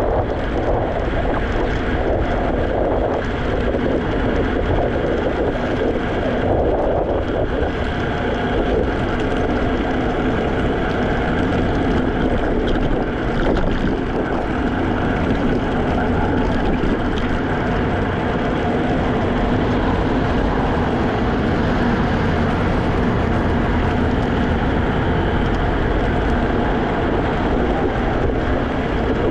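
Steady wind noise on the microphone and road rumble from a Segway Ninebot electric scooter riding along without a break.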